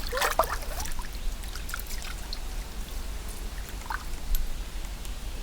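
Water splashing and trickling, with a few sharp splashes in the first half second.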